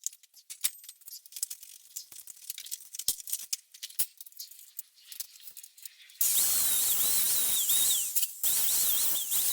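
Scattered clicks and taps of handling metal for about six seconds. Then a handheld grinder runs against steel welds for about three seconds with a wavering whine, which falls away at the very end as it winds down.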